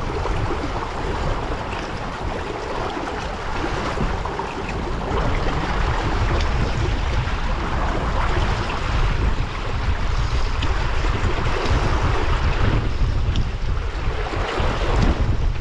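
Strong gusty wind buffeting the microphone in a heavy low rumble, over the hiss of water rushing past a small sailboat's hull while under sail.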